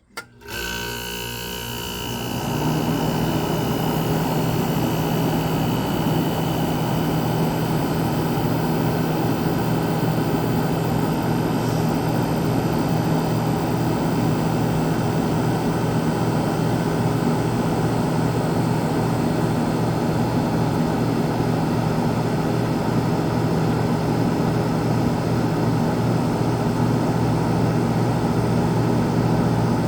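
Kenmore 7500 BTU window air conditioner switched to high cool. It starts up just after the beginning and builds to full running by about two seconds in, then runs steadily: the fan's rushing air over the low, even hum of its Tecumseh AK reciprocating compressor.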